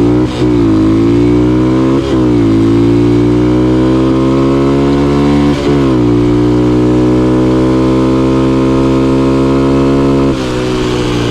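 Small single-cylinder four-stroke Honda dirt bike engine (a TRX125 engine in an XL100 frame) accelerating hard under full throttle. The pitch climbs in each gear and drops at upshifts about a third of a second, two seconds and five and a half seconds in. It holds near steady, then the throttle eases near the end.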